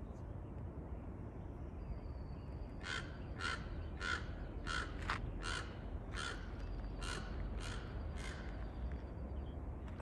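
A corvid gives a series of about eleven harsh calls, roughly two a second, starting about three seconds in and lasting some five seconds, over a steady low rumble.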